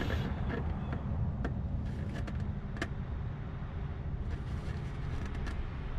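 A few short, sharp clicks over a steady low rumble, made by hands and tools working at a stuck, over-tightened oil filter on a 5.3 L V8.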